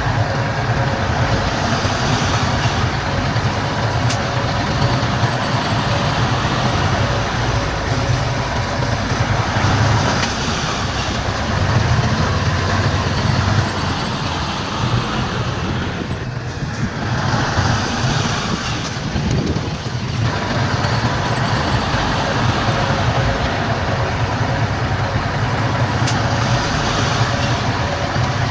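Heavy diesel engines of earthmoving machinery, a bulldozer and dump trucks, running steadily with a deep engine rumble. The sound dips briefly a little over halfway through, then returns to full level.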